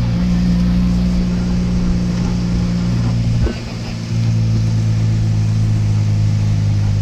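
Motor vehicle engine running with a steady low hum. About three and a half seconds in, the sound dips and breaks off briefly, then comes back at a lower pitch.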